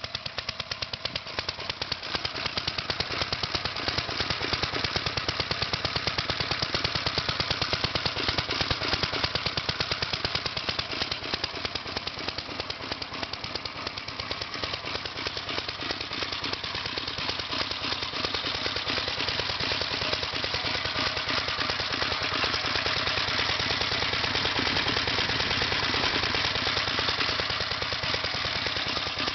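The single-cylinder engine of a 1961 Gravely Model L walk-behind tractor running after a hard start, with rapid, even firing pulses. The level swells and eases a little along the way.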